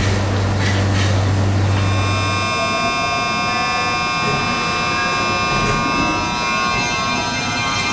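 Keisei 3000 series train's Toyo IGBT-VVVF inverter and traction motors, software-updated version, with the running sound heard from the train. A low hum dies away about two and a half seconds in, while a chord of several steady high whining tones sets in and holds.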